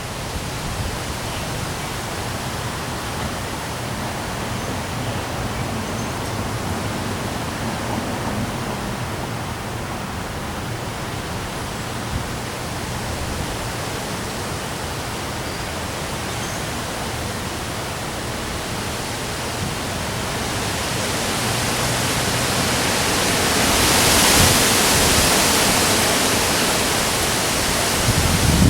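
Heavy rain and strong wind: a steady rushing hiss that swells louder about twenty seconds in, peaking a few seconds later.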